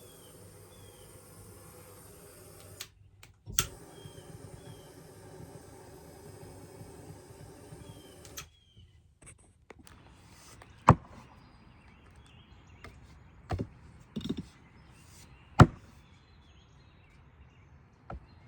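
Sharp knocks of an axe striking wood, about five in all and spaced unevenly, the two loudest about 11 and 15.5 seconds in.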